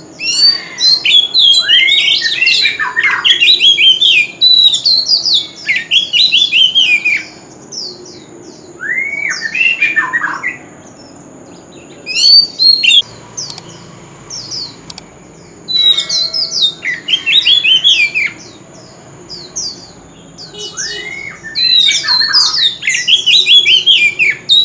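Oriental magpie-robin singing loud, varied phrases of rapid whistles and falling notes, in bursts of one to four seconds with short pauses between them. A thin steady high whine runs underneath.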